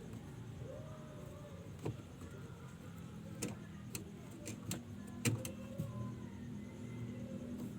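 A few sharp clicks and knocks, the loudest about five seconds in, as washing machine drain parts are handled and fitted back, over a steady low hum.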